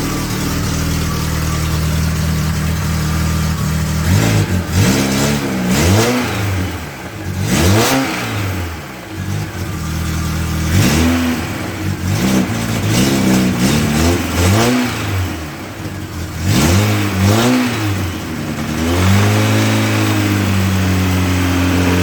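Freshly rebuilt car engine idling, then revved up and down about a dozen times with quick throttle blips, settling to a steady, slightly faster idle near the end. It runs a little unevenly, slightly misfiring, which the owner puts down to the timing chain having possibly jumped one tooth.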